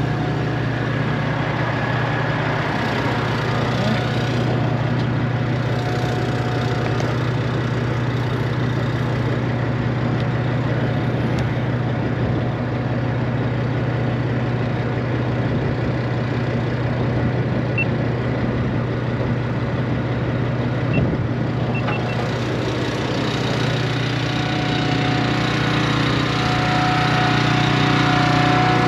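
Steady engine idling: the lowboy trailer's small pony motor running, with the straight-piped Peterbilt 389 idling along with it. A single short knock about two-thirds of the way through.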